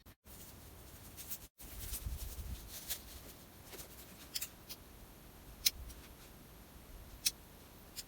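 A few sharp, separate clicks and snaps from lighting a campfire, over a low rumble of handling noise.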